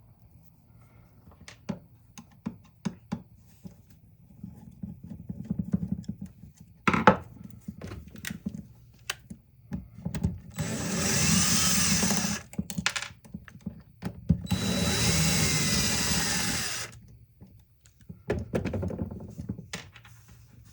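Power drill running in two bursts of about two seconds each, with the pitch sliding as the speed changes, backing out the screws of a saw's housing cover. Clicks and knocks of parts being handled come before and after.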